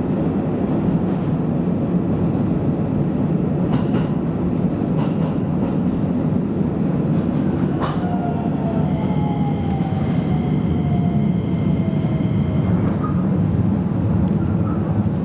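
Electric commuter train running, heard from inside the passenger car: a steady rumble of wheels on rail with occasional clicks. From about eight seconds in, a faint whine falls slowly in pitch.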